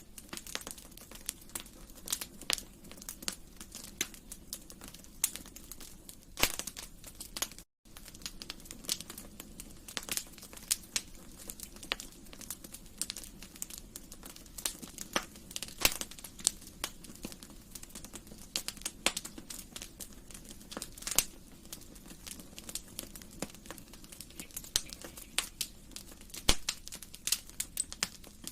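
Wood fire in a fireplace crackling, with irregular sharp pops and snaps over a steady low hiss of the burning. The sound drops out for a split second about eight seconds in.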